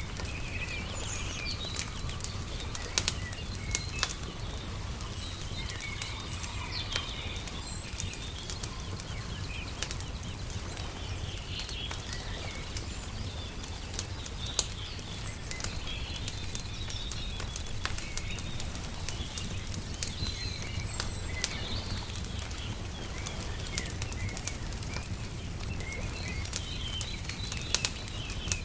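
Wood fire crackling with sharp pops, a few of them louder, mixed with birds chirping on and off over a steady low rumble.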